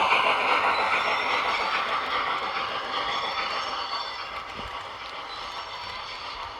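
HO scale model train running along the track, its wheels and locomotive motor making a steady whirr that fades as the train moves away.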